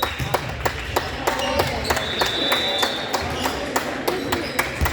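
Basketball game play on a gym court: a string of sharp knocks from the ball and players' feet, and a high sneaker squeak lasting about half a second a little after two seconds in.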